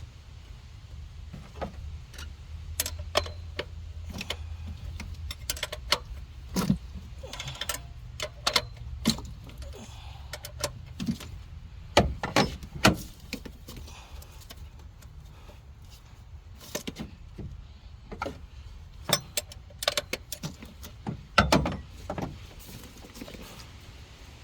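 Metal hand tools clinking and knocking against engine parts at irregular intervals, with a few louder clanks, during work on the cylinder head and exhaust manifold bolts.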